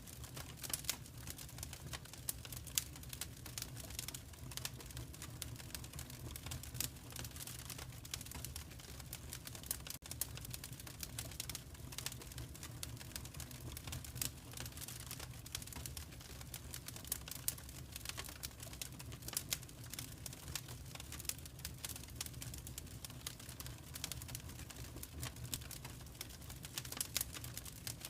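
Fire crackling in a fireplace: a dense, irregular run of small pops and snaps over a steady low rumble.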